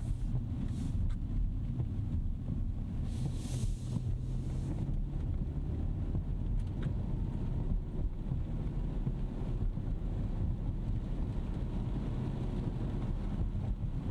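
2025 Rolls-Royce Ghost Series II driving on a wet road: steady low road and tyre rumble, with a brief rush of hiss a few seconds in.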